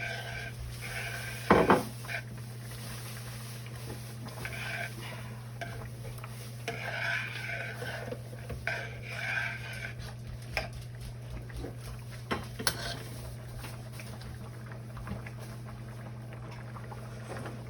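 A spoon stirring soup in a cooking pot, scraping and clinking against the pot, with a sharp knock about a second and a half in and another near the end, over a steady low hum.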